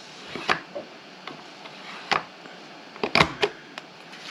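Paper being scored and punched on a scoring-and-punch board: a few sharp clicks and taps, the loudest a quick double click about three seconds in.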